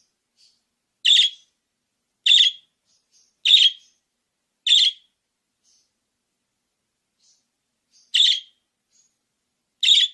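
Budgerigar giving short, sharp chirps, six in all. They come about a second apart, with a gap of about three seconds between the fourth and fifth.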